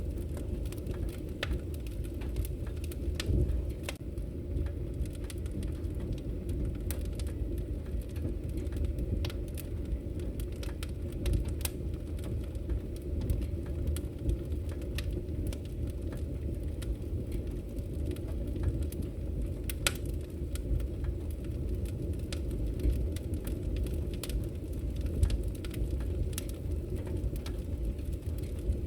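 Wood fire crackling in a fireplace: a steady low rumble of burning with frequent sharp pops and crackles at irregular moments.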